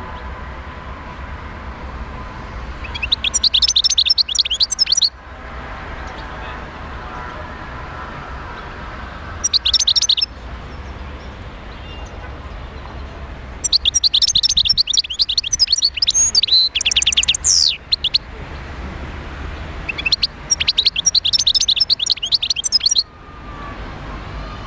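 European goldfinch song: fast, high twittering and trilling phrases in four spells, the longest about four seconds, with pauses between, over a steady low hum.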